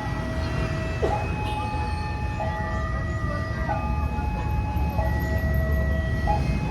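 Level-crossing warning alarm sounding a two-tone high-low signal, each tone held a little over a second and repeating steadily, which warns that a train is approaching or passing the crossing. Beneath it runs a steady low rumble.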